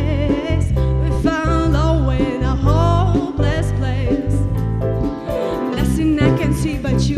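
Pop band music with a strong bass and beat, and singing over it.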